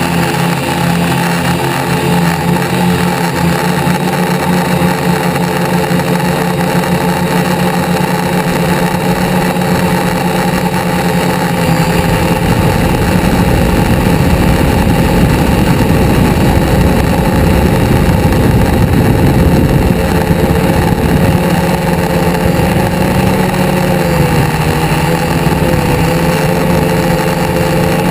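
Car engines running at a hot rod cruise night, a steady engine hum throughout. A deeper low rumble comes in about halfway through, and the pitch dips briefly near the end.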